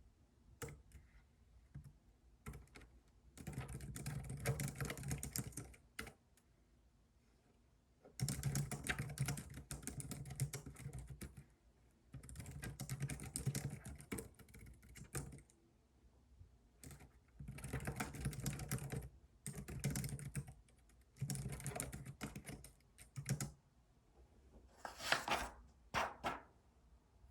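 Typing on a computer keyboard in runs of rapid key clicks a few seconds long, with short pauses between them. Near the end there are two brief, louder sounds.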